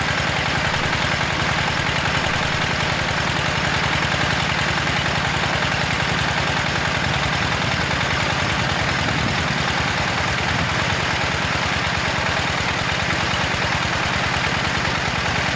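Small gasoline engine of a mini water pump running steadily with a rapid, even firing beat.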